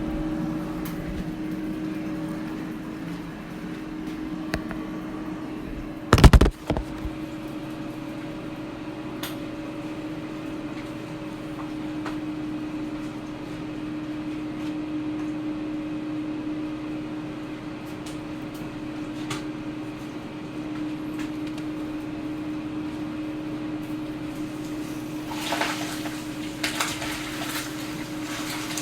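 Air fryer running: a steady fan hum with a low, even tone. A loud knock comes about six seconds in, and a few lighter clicks near the end.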